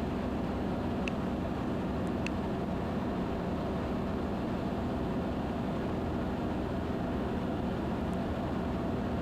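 Steady drone of a Van's RV-10's piston engine and propeller heard inside the cabin in flight, with a few faint ticks.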